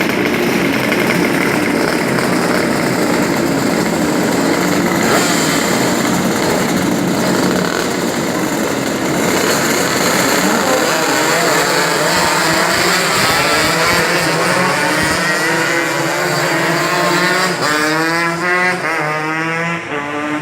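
A pack of two-stroke Yamaha RX-King road-racing motorcycles, tuned to 140cc, running hard together with several engines overlapping. In the last few seconds the engine pitches repeatedly climb as the bikes accelerate.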